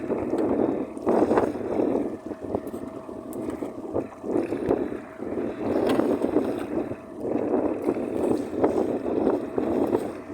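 Strong wind buffeting the microphone in surging gusts, over choppy water around a small fishing boat.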